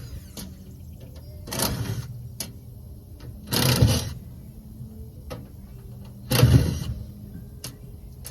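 Three short bursts of a small power-tool motor, about two to three seconds apart, with light clicks and knocks between them.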